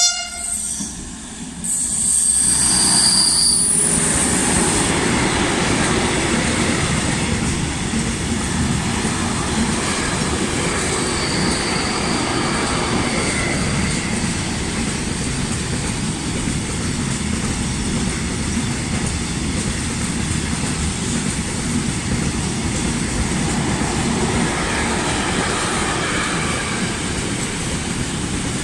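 Freight train running past at close range. A brief horn-like note sounds right at the start, and a high-pitched wheel squeal follows for a couple of seconds. Then comes a steady rumble and clatter of wagons rolling by.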